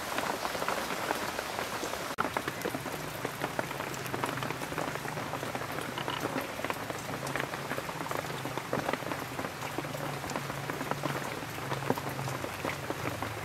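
Steady rain falling on a roof and wet ground: a dense patter of drops, with a low hum underneath from about three seconds in.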